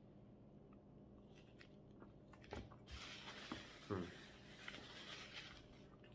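Faint eating sounds of a man chewing a mouthful of a sausage McGriddle, with soft wet smacks from about halfway through, the loudest near four seconds in, and a faint hiss over the second half.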